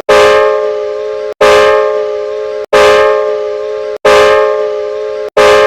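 A train whistle tone sounding as a chord, looped over and over: it starts sharply, fades slightly, and is cut off and restarted about every 1.3 seconds, five times.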